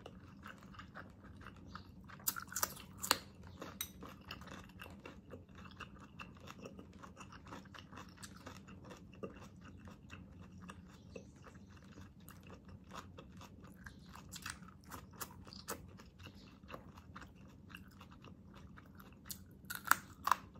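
Close-miked chewing of braised pork leg adobo, wet mouth sounds with many small clicks. There are a few sharp, crisp bites about two to three seconds in, and a cluster of louder crunches near the end as a fresh green chili is bitten.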